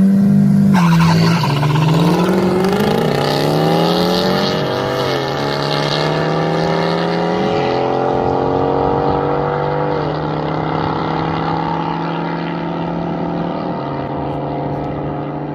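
Nissan 1400 bakkie's engine pulling away and accelerating through the gears. The pitch climbs and drops at each shift, about a second, five seconds and ten seconds in, then settles to a steady cruise.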